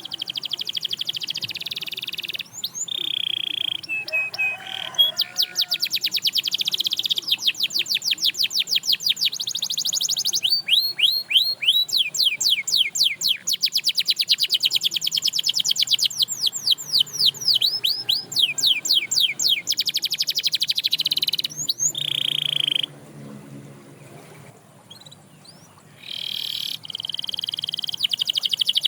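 A canary singing a long song of fast trills, rapid runs of repeated notes and held rolling notes. The song breaks off for a few seconds about three quarters of the way through, then starts again.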